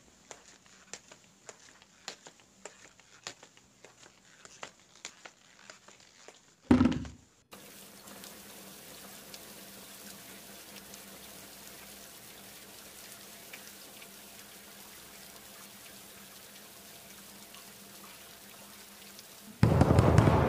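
Scattered light ticks of footsteps for the first six seconds, then a single heavy thud about seven seconds in. Water then runs steadily in a tiled bathroom over a low hum, and near the end a hand bangs loudly on a bathroom door.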